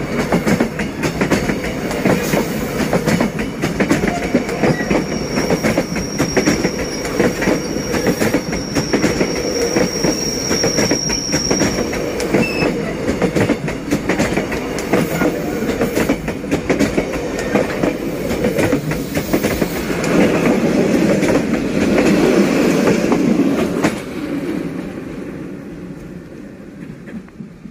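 Train hauled by a D19E diesel locomotive rolling past, its wheels clattering rapidly over the rails, with a thin, steady, high wheel squeal for several seconds early on. The clatter grows loudest about three quarters of the way through, then fades as the train moves away.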